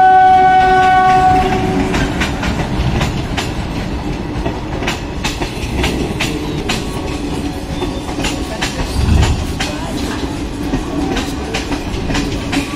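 Indian Railways train horn sounding, cutting off about a second and a half in. Then passenger coaches roll past close by with a continuous rumble and repeated sharp clacks of wheels over the rail joints.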